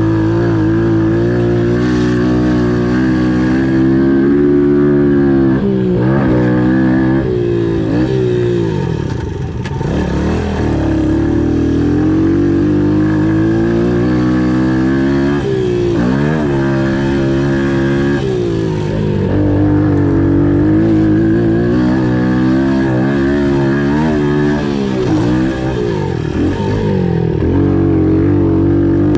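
Pit bike engines running hard, their pitch rising and falling again and again as the throttle opens and closes, at times with more than one bike heard at once.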